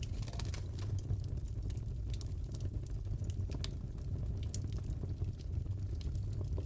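Crackling fireplace: a steady low rumble of burning with scattered sharp pops and snaps from the wood.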